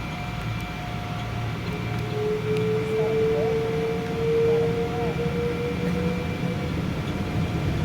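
Boeing 777-200 cabin noise: a steady low drone with faint steady tones above it. A whine rises slowly in pitch from about two seconds in and fades out a little before the end.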